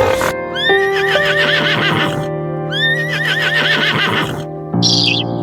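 Horse whinnying twice, each a quavering call of about two seconds, over background music.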